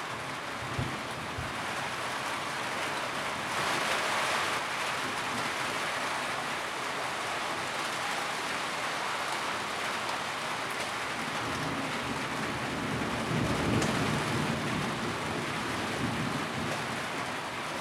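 Steady rain drumming on a tin roof, heavier for about a second around four seconds in. A low rumble swells about twelve to fifteen seconds in, with a few brief low thumps along the way.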